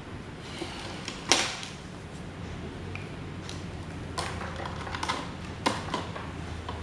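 A few sharp clicks and knocks of parts being handled during desk-fan restoration work, the loudest about a second in and three more in the second half, over a steady low hum.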